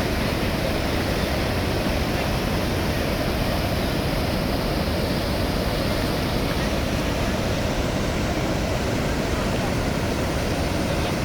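Water of Niagara Falls pouring down: a steady, even rush of noise that never lets up.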